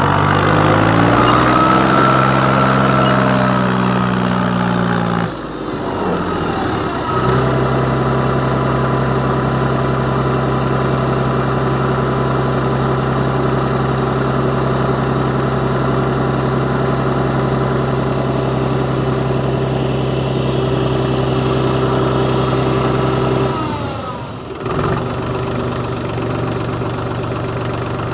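Mahindra tractor's diesel engine working hard to pull a trailer loaded with soil. The revs climb over the first few seconds, dip briefly about five seconds in, hold steady at high revs for most of the time, then fall to a lower steady note about twenty-four seconds in.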